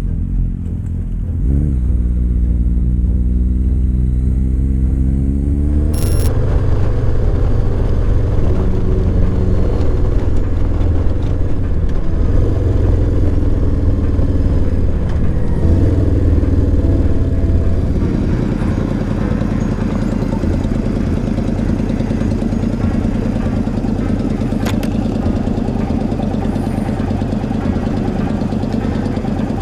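Motorcycle engine picking up speed, its pitch rising for a few seconds. About six seconds in there is a sudden cut, after which a motorcycle runs along steadily at road speed, evening out in the last third.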